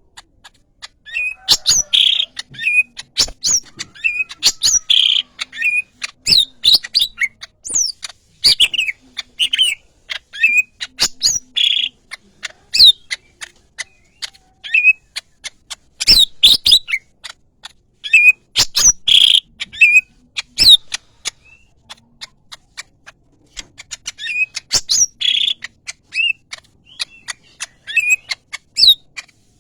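Leafbird (cucak ijo) singing energetically: a long, varied run of short whistled notes, quick rising and falling slurs and sharp clicking chips, delivered in rapid phrases with a few short pauses.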